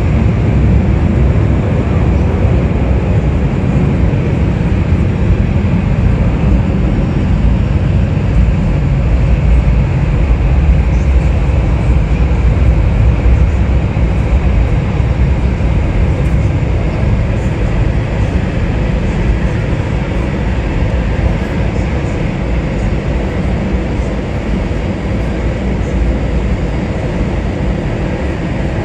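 Jet airliner's engines with a deep, steady rumble. It swells to its loudest about ten to fourteen seconds in, then slowly fades.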